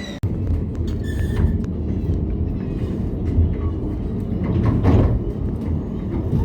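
Steady low rumble of a moving bus heard from on board, with a brief sudden drop-out just after the start.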